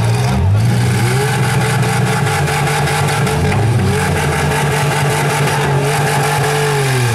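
Demolition derby cars' engines revving hard and repeatedly rising and falling in pitch as the wrecked cars push against one another.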